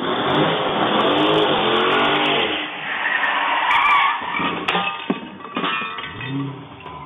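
Dodge Challenger's engine revving hard, pitch rising and falling, with tire squeal as the car speeds in and swings onto the driveway. A few sharp knocks come about five seconds in, and the engine then drops to a lower note.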